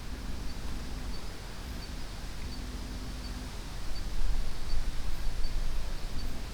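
Forest ambience: wind rumbling on the microphone, gusting stronger about four seconds in, with a faint high chirp repeating evenly about every 0.7 seconds.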